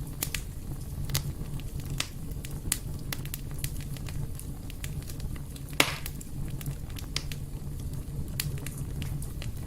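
Fire in a fireplace crackling, with frequent small sharp pops and one louder pop about six seconds in, over a steady low rumble.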